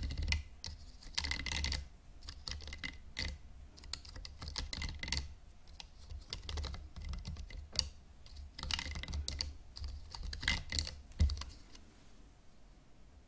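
Fingernails tapping and scratching on a hairbrush: irregular quick clicks and short scratchy strokes, with a few louder taps around ten to eleven seconds in.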